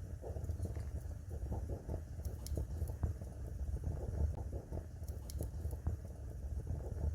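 Fire crackling in a fireplace: a steady low rumble of the flames under many small crackles, with a few sharper pops.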